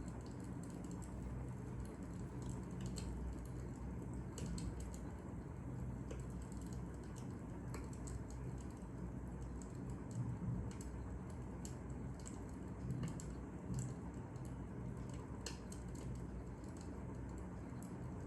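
Wood fire crackling: irregular sharp pops and ticks over a low steady rumble.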